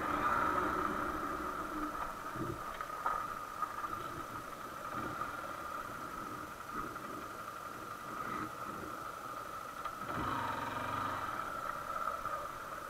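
Honda XR150L's single-cylinder four-stroke engine running, settling to idle while the bike is stopped, then picking up revs again about ten seconds in.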